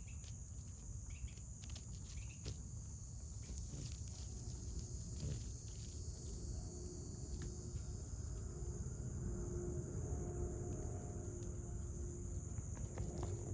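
Steady high-pitched drone of an insect chorus, with a low rumble underneath. About four seconds in, a faint steady hum joins it and carries on.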